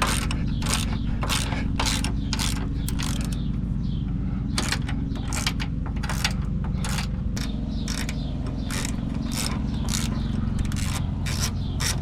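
Hand ratchet clicking over and over, two or three clicks a second, as a sway bar link nut is worked loose, over a steady low hum.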